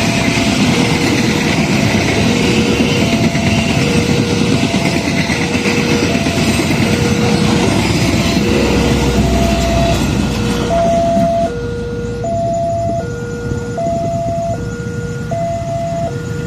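A passenger train's coaches rolling past on the rails with heavy wheel noise that drops away about eleven seconds in as the train clears. Throughout, a level-crossing warning alarm alternates between two tones, each held just under a second, and it stands out clearly once the train has gone.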